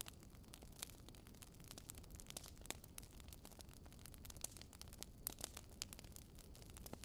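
Wood campfire crackling softly: irregular small pops and snaps, several a second, over a faint low rumble of the burning fire.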